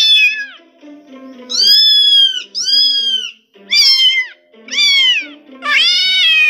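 Domestic cat meowing: six loud meows in a row, each about half a second to a second long, most sliding down in pitch.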